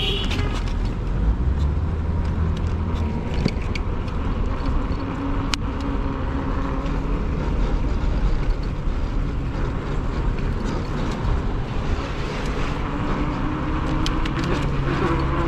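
Steady road noise while riding an e-bike in traffic: wind buffeting the microphone and tyre noise, with passing cars. A low hum rises slightly in pitch near the end.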